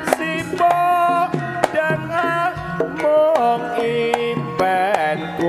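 Live jaranan music between sung lines: a pitched melody line of held notes and slides, over sharp, irregular hand-drum strokes.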